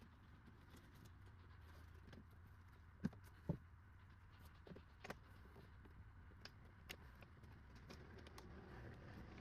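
Faint scattered clicks and light knocks, with two sharper knocks a half-second apart about three seconds in, over a low steady hum.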